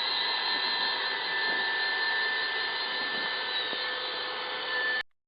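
Steady whirring of a small electric motor, with a constant hum under it, cutting off abruptly about five seconds in.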